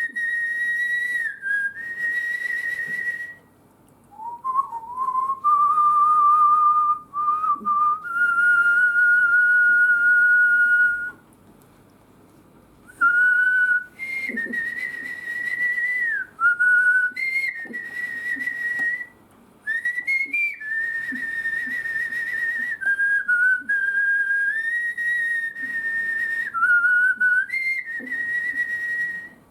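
A person whistling a slow melody with their lips, in long held notes that step up and down in pitch, with a few short breaks between phrases.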